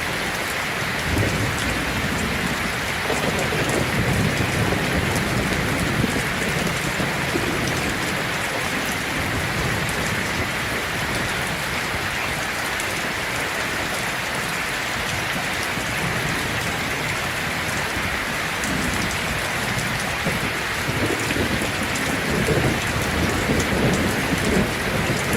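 Heavy rain falling steadily on a tin roof, with low rolls of thunder swelling a few seconds in and again near the end.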